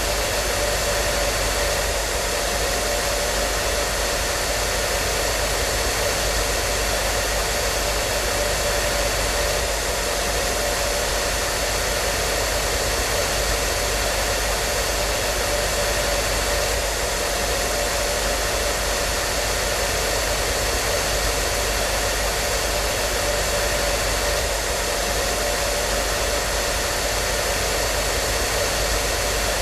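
Hair dryer running steadily, a constant rushing blow with a steady whine in it.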